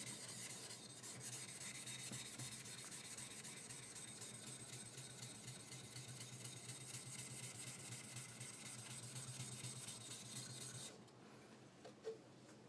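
A hard, wear-resistant high-speed steel skiving knife being rubbed back and forth on a whetstone: a faint, steady grinding scrape that stops about eleven seconds in, followed by a light tap.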